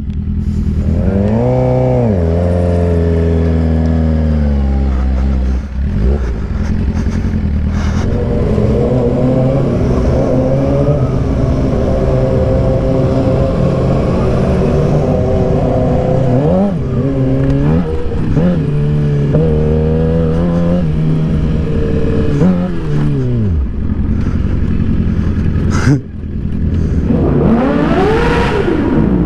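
Sportbike engine under way, revving up and dropping back as the rider accelerates and shifts, its pitch climbing and falling several times, with a hard rev that sweeps up and back down near the end.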